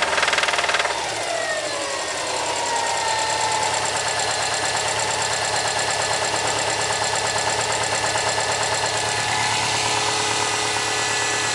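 2008 Subaru STI's turbocharged 2.5-litre flat-four boxer engine drops from a rev about a second in and settles to idle over the next two seconds, then idles with a steady rhythmic knock. The knock is from a failed number 3 connecting-rod bearing.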